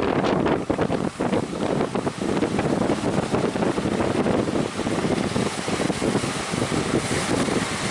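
Strong wind buffeting the microphone, a dense fluttering rumble, over the wash of breaking surf.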